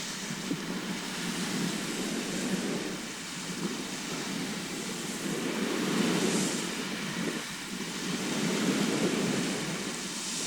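Sea surf washing onto a shore, a continuous rushing noise that swells and falls back every few seconds as waves come in.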